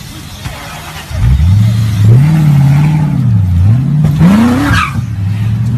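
Car engine revved: it idles, rises sharply about a second in and holds, dips, then climbs to a higher peak before dropping back to a steady idle near the end.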